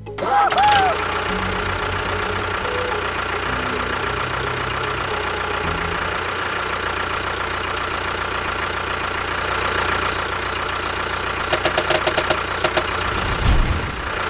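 An engine running steadily, with a brief rising-and-falling whine right at the start and a quick run of sharp clicks near the end followed by a low thump.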